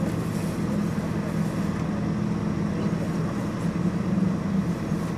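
Vehicle engine idling, a steady low hum with even background noise.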